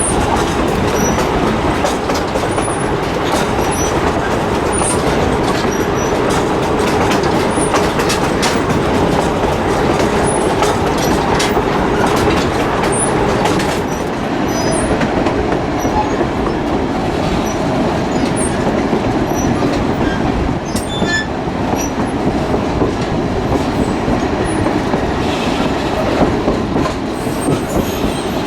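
Fillmore and Western Railway train rolling along steadily, its wheels clicking over the rail joints, with brief high wheel squeals now and then.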